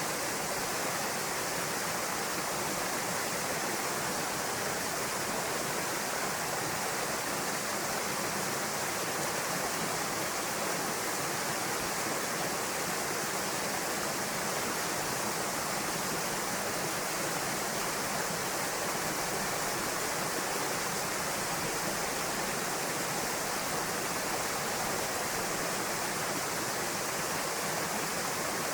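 Waterfall cascading over rock into a pool: a steady, unbroken rush of falling water.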